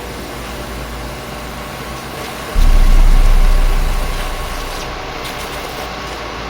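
Steady motor-like whooshing noise, with a sudden loud low rumble about two and a half seconds in that fades away over the next second or two.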